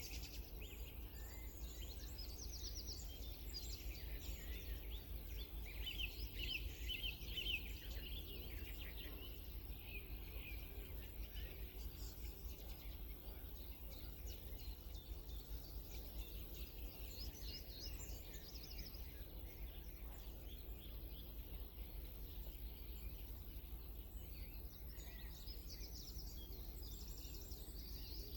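Small songbirds singing and chirping, with quick trills that come and go in clusters, over a steady low background hum.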